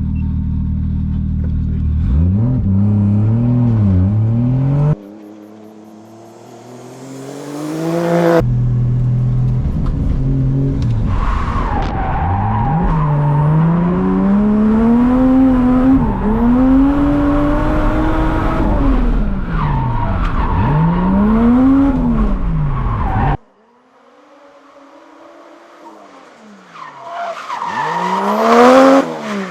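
Drift car engine revving up and down over and over, with tyres squealing as the car slides. The sound cuts off abruptly a few times.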